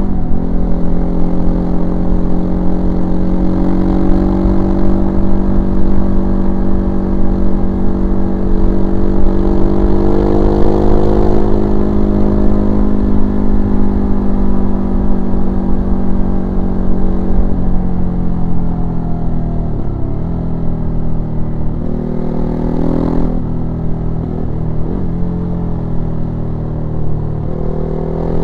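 Ducati Hypermotard 939's L-twin engine, heard from on board while riding, holding steady cruising revs. In the last third the engine note drops and dips several times as the throttle is eased, then rises again just at the end.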